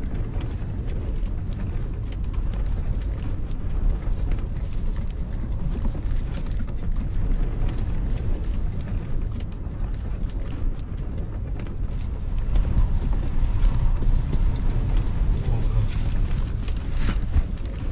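Strong gusty wind buffeting the microphone: a heavy low rumble that swells and eases, with scattered light clicks and rattles.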